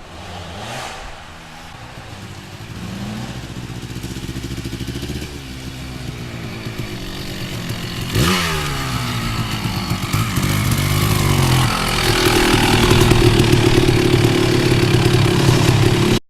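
1987 Kawasaki KDX 200's air-cooled single-cylinder two-stroke engine running, its pitch rising and falling with the throttle, with a sharp rev about eight seconds in. It grows louder toward the end and cuts off suddenly.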